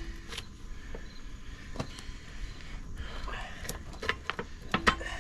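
Scattered metal clicks and knocks as a steel pivot pin is worked into the mounting holes of an excavator's hydraulic thumb, coming more often near the end, with the loudest knock shortly before it ends.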